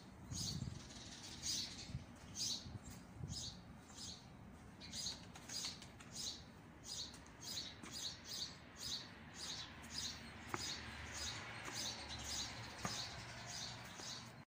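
A small bird chirping over and over, short high chirps about once or twice a second, over a faint steady hiss.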